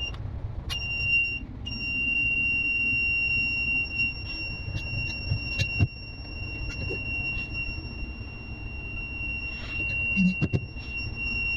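Control-panel alarm buzzer sounding a steady high-pitched tone after battery no. 2 is switched on, starting about a second in, cutting out briefly, then holding continuously, over a low steady machinery rumble.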